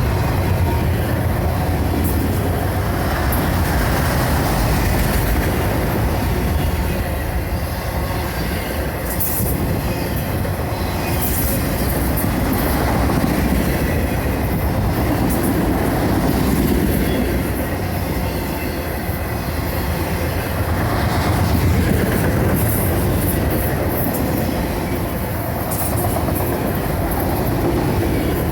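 A long freight train of autorack cars rolling past, a steady loud rumble and clatter of wheels on rail. Now and then brief high-pitched wheel squeals and clanks come through, a few times.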